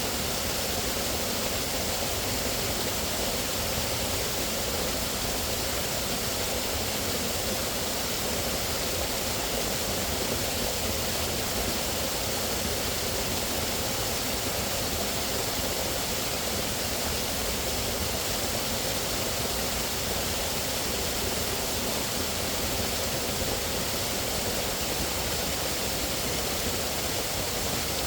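Steady rushing water, like a waterfall or fast stream, an even wash of noise with no separate events.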